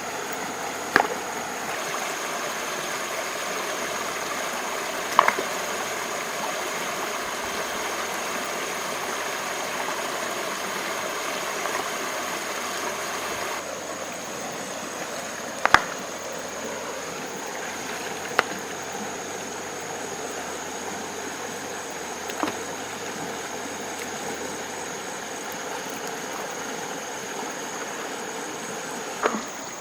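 Steady rushing water, like a stream, with a thin high-pitched whine held throughout. Several sharp knocks stand out, spaced a few seconds apart.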